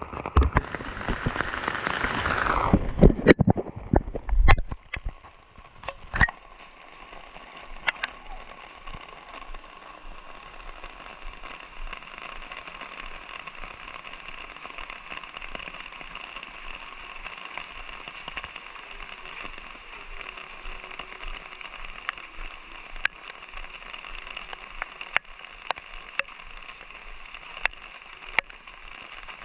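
Light rain falling steadily, with scattered sharp drops ticking on surfaces. During the first four seconds a louder rushing noise that falls in pitch covers it, then stops.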